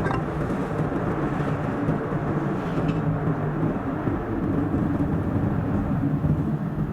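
A car's steady driving noise, engine hum and road noise together, sped up to double speed so it sounds higher and faster.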